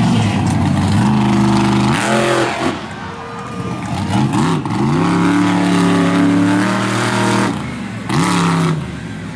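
Monster truck engine revving in repeated surges, its pitch climbing sharply and dropping back, held high for a couple of seconds in the middle.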